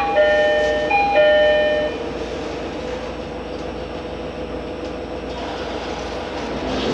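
A short electronic chime of a few flat notes in the first two seconds, then the steady running noise of a JR Hokkaido H100 DECMO electric-drive diesel railcar heard in the cabin, with a constant hum.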